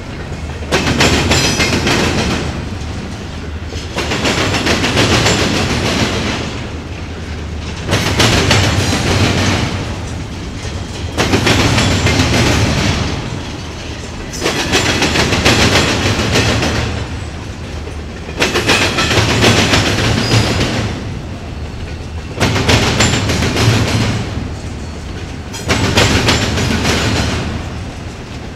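Double-stack intermodal train's well cars rolling past, their wheels clattering over a railroad diamond crossing. A loud burst of clatter comes every three to four seconds as each car's wheel sets hit the crossing, easing off in between.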